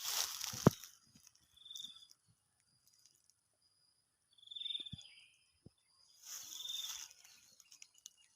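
A bird repeating a short, high, buzzy chirp about every two seconds, among two spells of hissing rustle. Sharp low thumps, the loudest a little under a second in and a softer pair about five seconds in.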